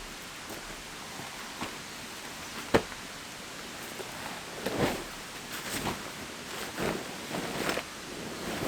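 Steady hiss of rain with scattered knocks and rustling as camping gear is handled: one sharp knock about three seconds in, then a run of rustling and scraping sounds in the second half.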